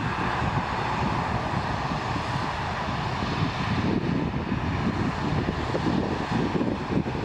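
Airliner engines running close by: a steady, loud rumble with a broad hiss over it.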